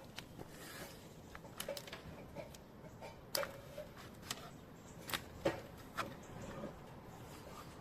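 Scattered light clicks and taps at irregular intervals, about a dozen, a few with a brief ringing note, over faint background hiss.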